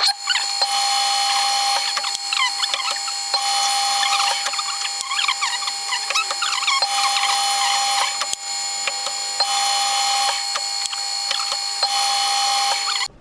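Metal lathe running with a twist drill fed from the tailstock into 304 stainless steel, the cut squealing and chirping over a steady high whine. It comes in repeated short feeds every couple of seconds, with sharp clicks between.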